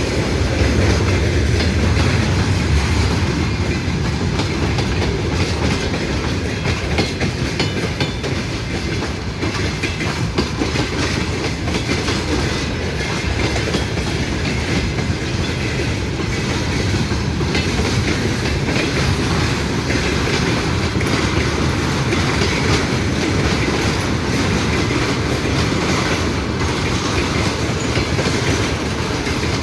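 A train's cars rolling steadily past close by, the wheels clattering over the rail joints without a break.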